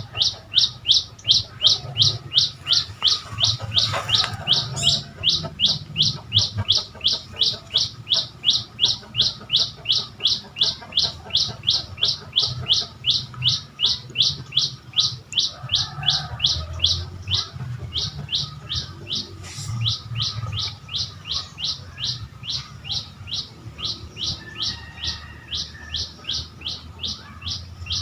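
A bird calling one short, high note over and over at a steady pace of about three a second, without a break.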